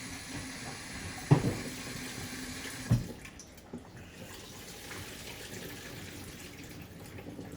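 Kitchen tap running into a sink while rice is rinsed, with two sharp knocks about a second and a half apart. The running water drops off after the second knock, about three seconds in.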